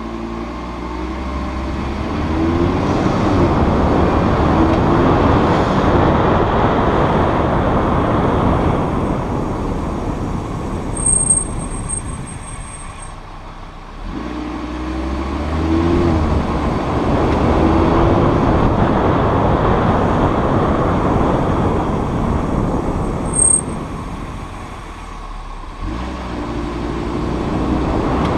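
Audi RS3 sedan (8V facelift) driving: its five-cylinder engine pulls away with rising pitch under road noise, then the car slows and the brakes give a thin, high-pitched squeal. This happens twice: a squeal of over a second about 11 seconds in, and a brief one near 23 seconds.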